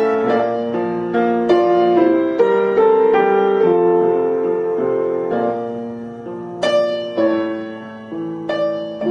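Slow, gentle piano passage of single notes and chords, each struck note ringing and fading away. Two louder chords are struck, about seven seconds in and again near the end.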